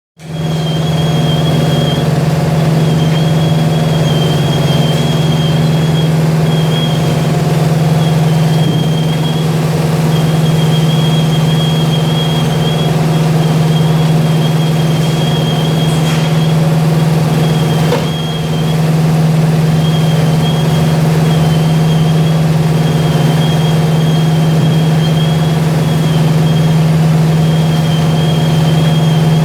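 Vibrating-discharge vortex washing machine on a salad processing line, running steadily: a loud constant low hum under a wash of noise, with a thin wavering high whine that cuts in and out every few seconds.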